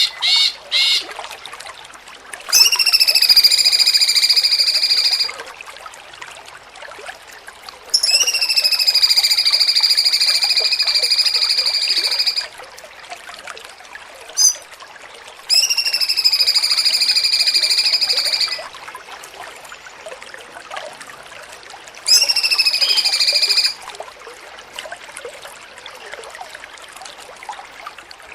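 A songbird giving a long call held on one pitch, four times, each lasting about two to four seconds, with a single short chirp partway through. A faint hiss fills the gaps between calls.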